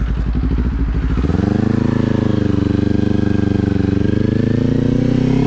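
Kawasaki sport bike with a Leo Vince aftermarket exhaust, its engine pulsing at low revs and then, about a second in, accelerating with a steadily rising pitch.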